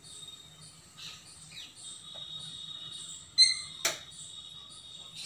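Small birds chirping in short, high, repeated calls, with a steady high thin tone under them through the second half. A sharp click about four seconds in.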